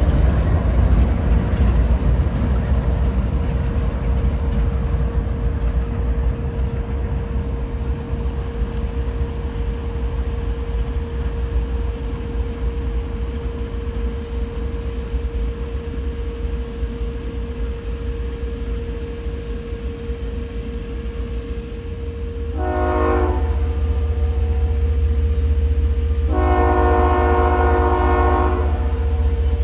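Diesel locomotive air horn blowing a multi-note chord: a short blast about 22 seconds in, then a long blast, then another blast starting just before the end. It sounds over a steady low rumble of the train that grows louder as the horn begins.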